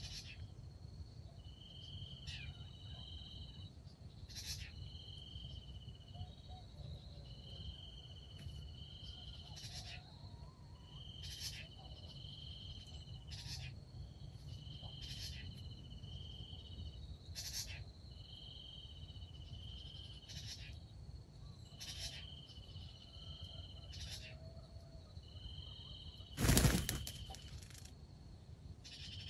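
Insects, such as crickets, calling steadily: a high buzzing trill about a second long repeating roughly every two seconds, with short sharp ticks in between, over a low rumble. About 26 seconds in there is one sudden loud burst of noise lasting about half a second.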